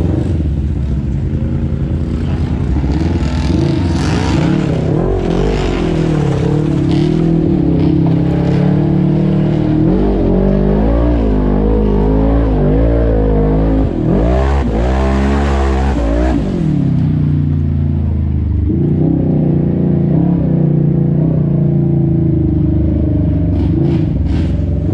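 Off-road vehicle engine running hard and revving up and down, with a quick surge and drop in revs a little past the middle.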